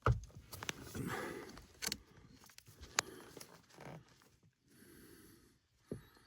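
Scattered knocks and clicks of tools and fittings being handled, with some rustling and a person breathing audibly.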